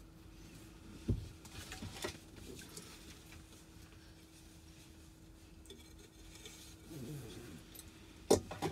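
Quiet background with a faint steady hum, broken by a sharp knock about a second in, a few softer knocks, and a louder knock near the end.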